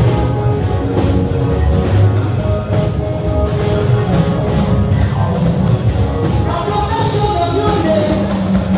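Loud band music with a drum kit, a praise band playing, with some singing over it.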